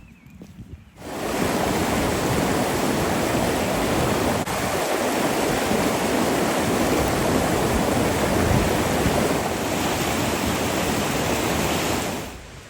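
Waterfall rushing: a loud, steady wash of falling water that cuts in about a second in and cuts off shortly before the end.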